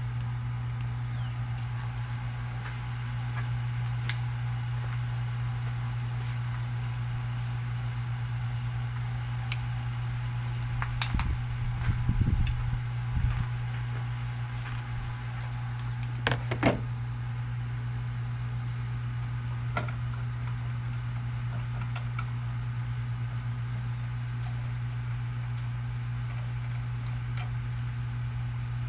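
Steady low machine hum under a few short handling knocks and clicks, clustered a little before the middle and again just after it, as an R134a refrigerant can is shaken and handled.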